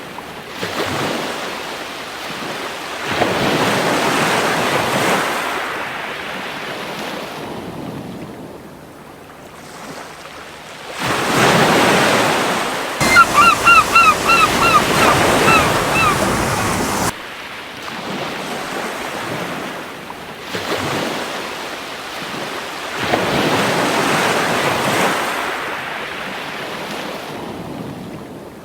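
Waves breaking and washing up on a beach in slow surges, a few seconds apart. Around the middle a seagull gives a quick series of about eight short calls lasting a few seconds.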